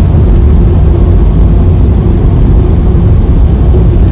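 Loud, steady low rumble of a car driving through a road tunnel: road and engine noise with a faint steady hum above it.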